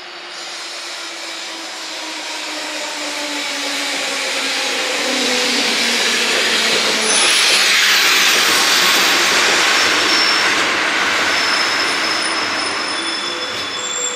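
Keikyu electric train running in along the platform. Its noise swells to a peak about eight seconds in, then eases, and thin high squealing tones come in during the second half.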